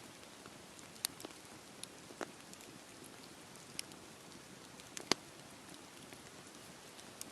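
Campfire burning in steady rain: a soft even hiss of rain with scattered sharp pops and crackles, the loudest about five seconds in.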